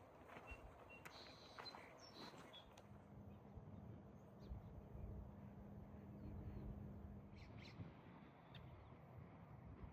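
Faint bird chirps over a quiet outdoor background: a few short high calls in the first few seconds and a few more near the end, with a faint steady low hum in between.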